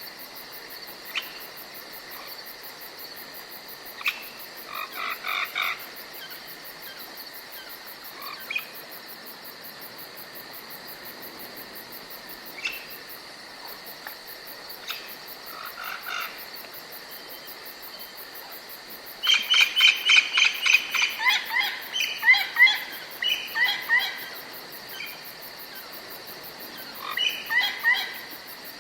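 Steady high chirring of crickets, with short animal calls here and there and a loud run of rapid repeated calls about two-thirds of the way in, returning briefly near the end.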